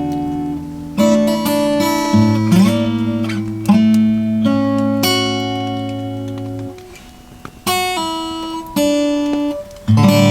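Acoustic guitar strumming chords. Each chord rings on and fades, with short pauses between phrases.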